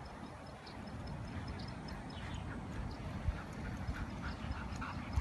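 A retriever panting hard after chasing a ball, short quick breaths about three to four a second that come through more clearly from about two seconds in, over a low rumble.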